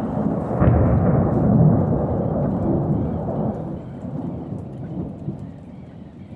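Thunder: a sharp crack about a second in, then a long, heavy rumble that rolls on and slowly fades. Rain falls steadily underneath.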